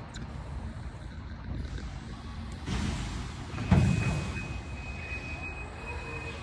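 Truck engine running steadily. About halfway through comes a sudden loud burst, and after it a steady high-pitched tone sounds.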